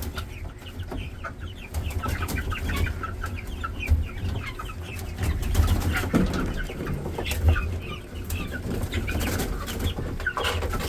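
Guinea fowl calling in a continuous run of short, repeated clucks and chirps over a low rumble.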